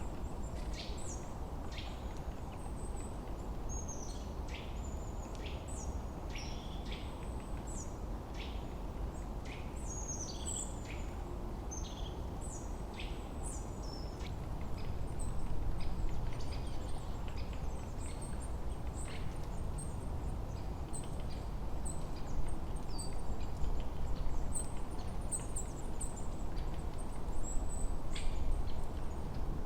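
Forest ambience of many small birds chirping in quick, high, downward-sweeping notes, busiest in the first half, over a steady low rush of wind that swells slightly about halfway through.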